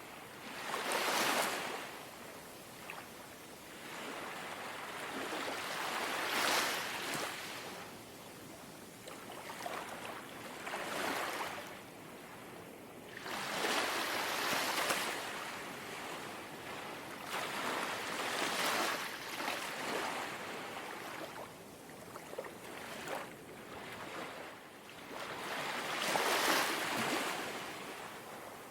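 Gentle sea waves lapping at the shore, each small wave washing in as a soft swell of hiss and falling away, about every four to five seconds.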